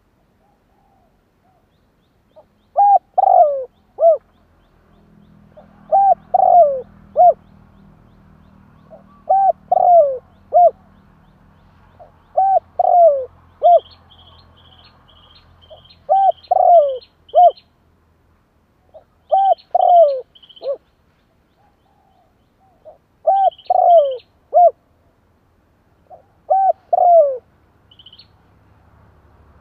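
Spotted dove cooing in a lure recording for calling in wild doves: a short phrase of three or four falling coos, repeated eight times about every three and a half seconds. A small bird chirps faintly and high in the second half.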